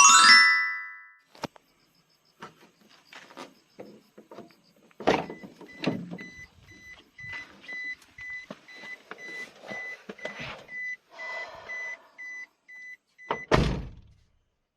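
An electronic beeper sounding a high beep about twice a second amid clicks, knocks and handling noise. A single heavy thump near the end cuts the beeping off. The guitar music rings out at the very start.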